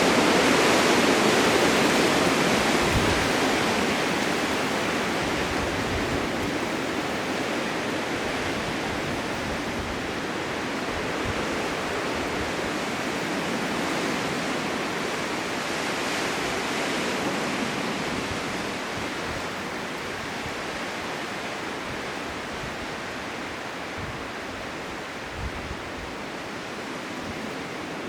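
Blizzard wind: a steady rushing noise that swells and eases in gusts, loudest at first and slowly dying down, with a few brief low buffets.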